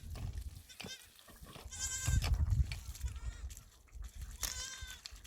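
Goats bleating: two clear, wavering bleats, one about two seconds in and another near the end, with a fainter call before them.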